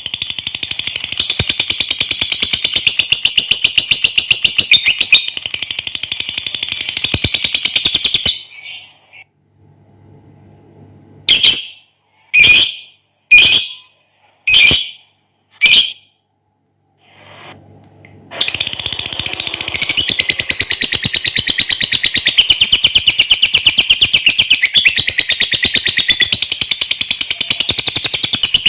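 Lovebird giving its long 'ngekek' chatter, a rapid high-pitched trill that breaks off after about eight seconds. Five short separate shrill calls follow, then the long rapid chatter starts again about eighteen seconds in.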